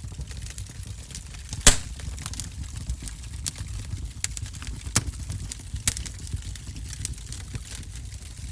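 Wood fire crackling in a fireplace: irregular sharp pops and snaps over a steady low rumble of flames, with one loud pop about two seconds in.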